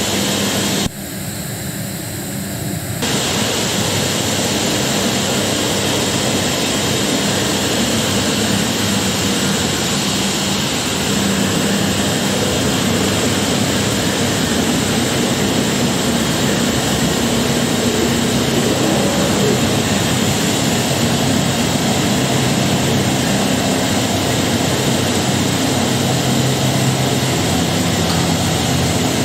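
2013 DMS 505i CNC router running under power: a loud, steady machine noise with a low hum, which steps up in loudness about three seconds in and then holds.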